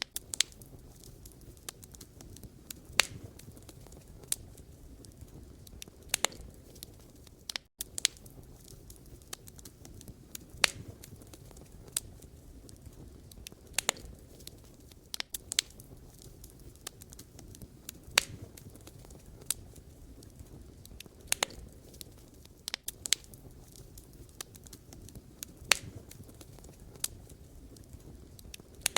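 Wood fire crackling: irregular sharp pops and snaps from the burning logs, a few of them much louder, over a low steady rush of the flames. The sound cuts out for an instant about eight seconds in.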